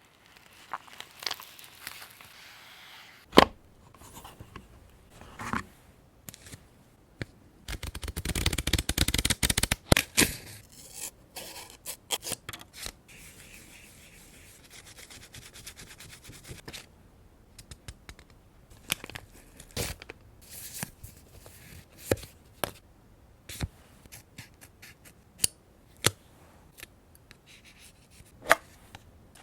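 Paper-crafting handling sounds: paper being cut with scissors, rustled and torn, with scattered light taps and clicks. About eight seconds in comes a busy stretch of rapid crackling, and two sharp clicks stand out, one early and one near the end.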